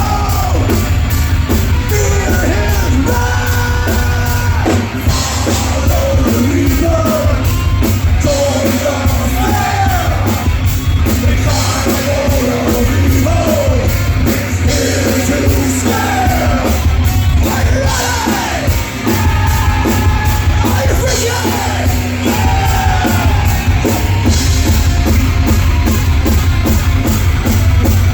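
Live heavy rock band playing loud: a heavy, steady low end of bass and distorted guitar under fast, dense drumming, with a lead part sliding and bending in pitch over the top.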